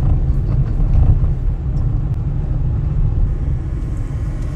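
Steady low rumble of a car driving along, with no other distinct sound standing out.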